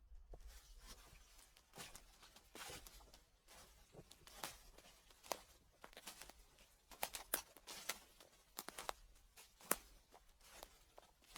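Footsteps on dry fallen leaves: quiet, irregular crunching and crackling of leaves underfoot.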